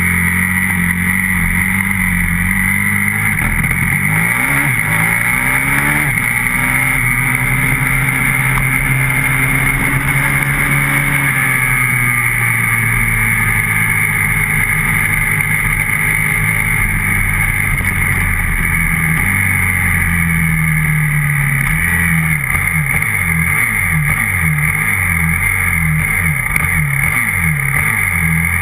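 A 125cc grass-track racing motorcycle's engine, heard from on the bike, running hard under load. Its pitch climbs and falls again and again as the throttle is worked through the turns, held steady at high revs for several seconds in the middle.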